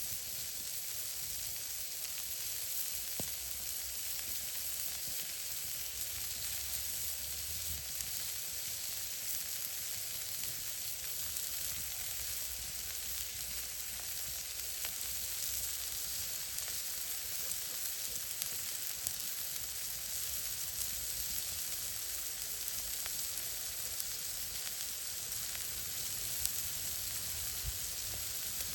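Food sizzling in a pan over an open campfire: a steady frying hiss with scattered small pops and crackles.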